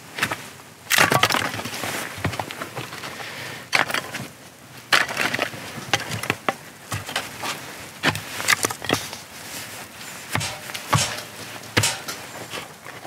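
Single-bevel Japanese nata hatchet striking and working into a piece of firewood: a series of irregular sharp knocks with smaller cracks and splintering of wood between them as the log splits.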